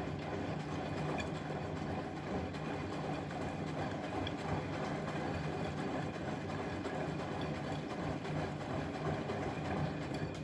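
Bosch Maxx WFL 248Y front-loading washing machine running, a steady mechanical hum from its motor and drum. Its higher-pitched part drops away near the end.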